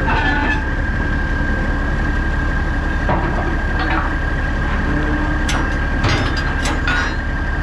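Semi truck's diesel engine idling steadily with a constant high whine over it, while a few sharp metal clanks and knocks sound, several of them close together after about five and a half seconds.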